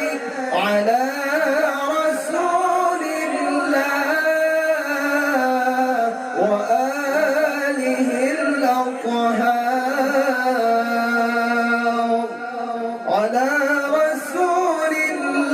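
A man's voice chanting an Arabic salawat in long, ornamented held notes, in the melismatic style of Quran recitation.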